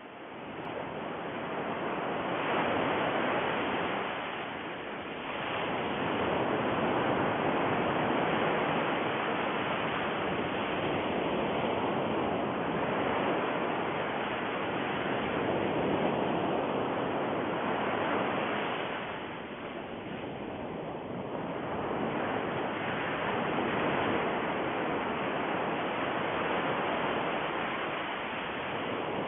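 Steady rushing noise like surf, swelling and easing every several seconds, with no motor whine.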